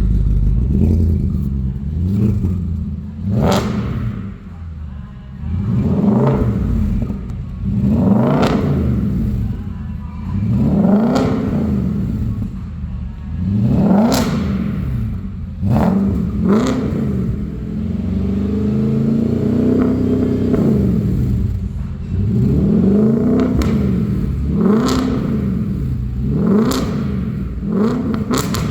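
Audi A8 with a variable valved exhaust being revved over and over: repeated quick blips of the throttle, each note rising and falling, with one longer, slower rev about two-thirds of the way through.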